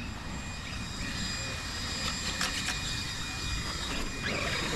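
Battery-powered RC monster trucks (Traxxas Maxx and Arrma Granite) driving on a dirt track, their brushless electric motors giving a high steady whine over tyre and gravel noise, with a few quick rising whines near the end as a truck accelerates.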